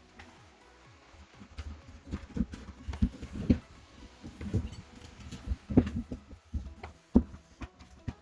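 Irregular light knocks and clicks, several a second, with sharper ones about three and a half, six and seven seconds in.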